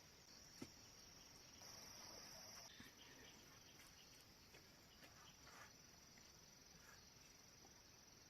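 Near silence with a faint, steady, high insect drone, a little stronger for about a second near the start, and a few faint ticks.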